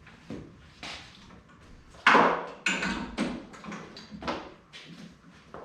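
A short burst of welding-arc crackle about two seconds in, a single tack weld on the steel battery-box plate, among lighter knocks and clinks of metal.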